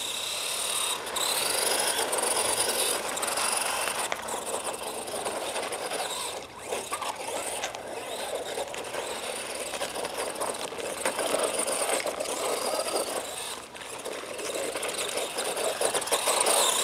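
ECX Torment 1/10 scale electric RC short course truck driving, its motor whine rising and falling in pitch as the throttle is worked, over a rush of tyre and drivetrain noise.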